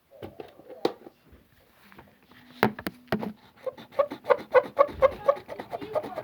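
The rubber eraser of an erasable gel pen rubbed back and forth over paper to erase ink. A few sharp knocks in the first half, then a quick run of short squeaks, about four a second.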